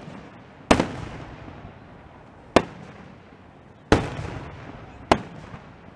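Aerial firework shells bursting: four sharp booms one to two seconds apart, each trailing off in a rolling echo.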